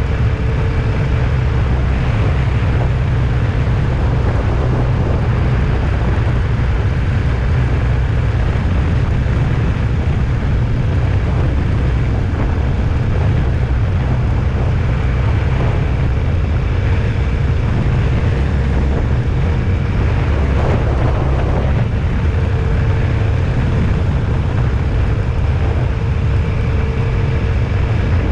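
Vehicle on the move: a steady low rumble of engine and road noise, with a faint constant hum above it.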